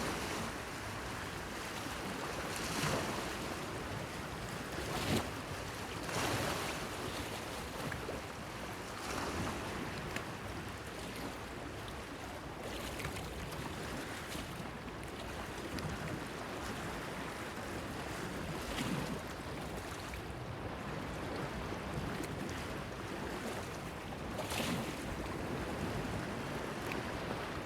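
Small waves lapping and splashing against a breakwater pier, a brighter splash every few seconds over a steady wash of water and light wind.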